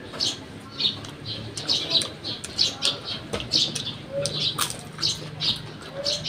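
Small birds chirping over and over, two or three short chirps a second.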